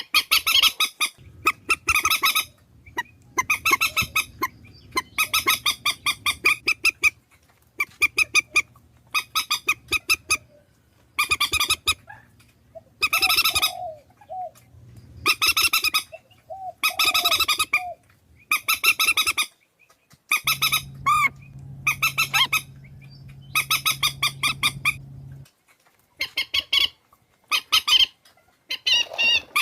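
Swamphen calling: a string of loud, harsh, rapidly pulsed squawks, each under a second long, repeated every one to two seconds with short gaps between them.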